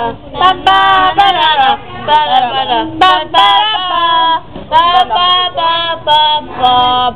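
A young female voice singing loudly in short phrases of held notes that slide up and down in pitch.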